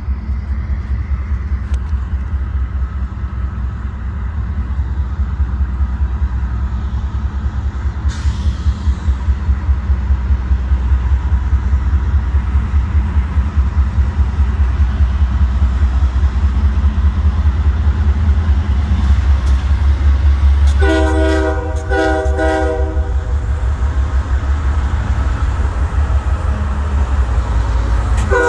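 CSX freight train's diesel locomotives approaching slowly, their low engine rumble growing louder. The locomotive's air horn sounds a chord in two short blasts about three-quarters of the way through, and starts another right at the end.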